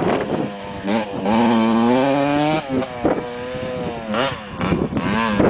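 Motocross motorcycle engine revving hard, its pitch climbing steadily, dropping sharply about two and a half seconds in, then climbing again, with quick blips of the throttle near the end.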